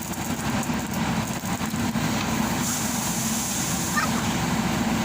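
Heavy diesel engine of a backhoe loader or truck running steadily, with a few faint knocks about half a second to two seconds in.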